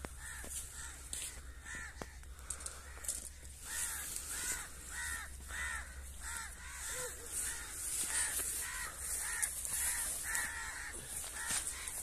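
A bird giving harsh, caw-like calls over and over, about two a second, with a short lull a few seconds in.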